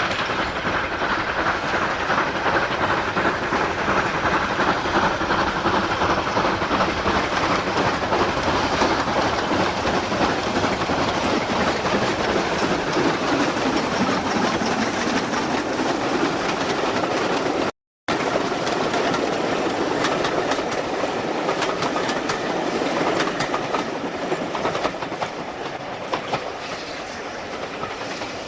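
GER N7 0-6-2T steam tank locomotive 69621 running along the line, a steady noise of the moving train with some steam hiss. The sound cuts out completely for a moment about two-thirds of the way through, then resumes.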